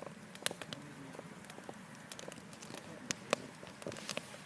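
Campfire crackling: burning wood gives off irregular sharp pops and snaps, the two loudest close together a little past three seconds in.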